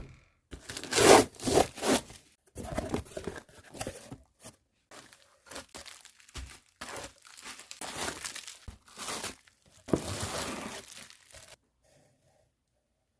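Packaging being torn open and crinkled by hand during an unboxing: an irregular run of tearing and rustling noises that stops about a second and a half before the end.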